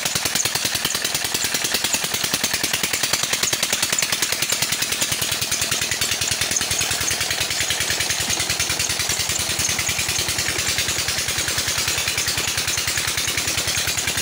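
Old 20 hp Petter diesel engine running steadily, with an even, rapid knocking beat from its firing strokes.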